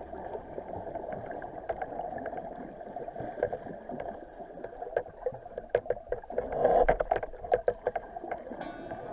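Muffled water sloshing and bubbling against an action camera in a waterproof housing as a snorkeler swims, with many small clicks and a louder surge of water about two-thirds of the way through.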